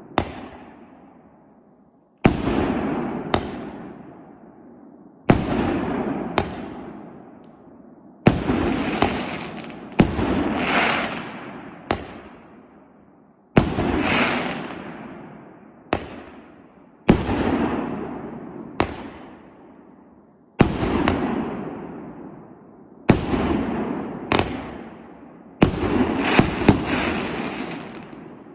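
A 2-inch, 36-shot firework cake firing its shells one at a time, every two to three seconds. Each shot is a sharp bang, then a second bang about a second later, then a fading crackle and rumble.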